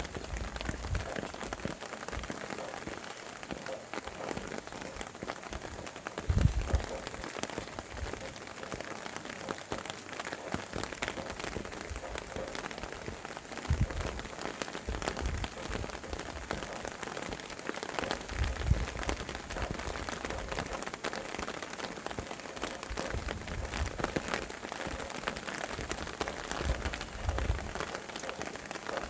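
Steady rain falling, with wind gusting and rumbling in low now and then, four times.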